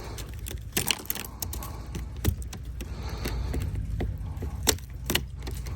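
Ice being chipped and scraped off a car by hand: irregular sharp clicks and cracks, some in quick clusters, over a low steady hum.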